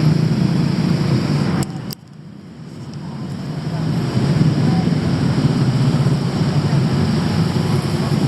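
Steady rumble of city street traffic. About two seconds in it cuts out sharply, then swells back up over the next couple of seconds.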